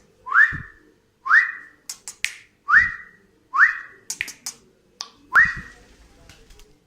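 Cockatiel whistling a short rising call five times, about once a second, with a few sharp clicks between the calls.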